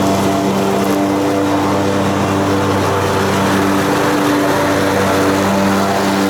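Lawn mower engine running steadily at a constant speed, a loud even drone that holds its pitch.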